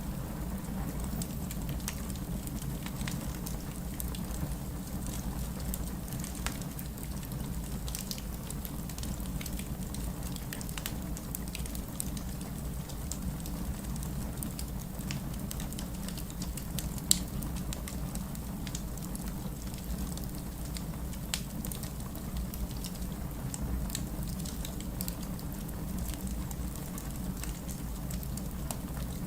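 Wood campfire burning, a steady low rush of flame with scattered small crackles and pops of burning wood; one sharper pop about 17 seconds in.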